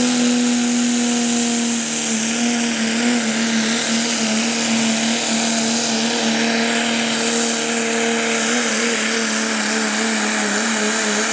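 Diesel truck engine held at full throttle under a pulling load, a loud steady drone with a hiss above it; from about two seconds in its pitch sags slightly and wavers as the load bears down.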